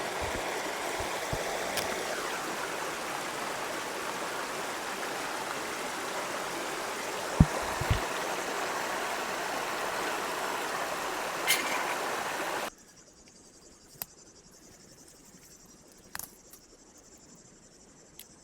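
Steady rush of flowing water, with two dull knocks around the middle. A little past two-thirds through it cuts off abruptly to a much quieter background with a few faint clicks.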